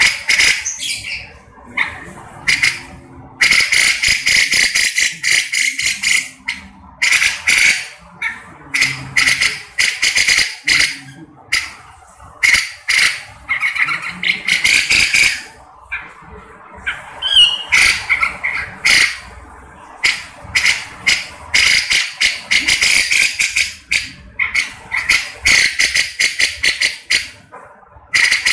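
Cucak jenggot (grey-cheeked bulbul) calling in loud, harsh, chattering bursts, one rapid cluster after another with short pauses between.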